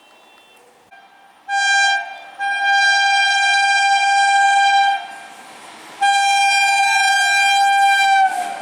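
Indian Railways train horn sounding three blasts, one short and then two long ones, on a single steady note that sags slightly in pitch as the last blast ends.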